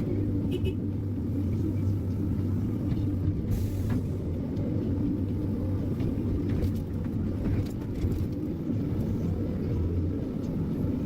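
Heavy forestry machine's engine running steadily with a low drone, and a few faint knocks over it.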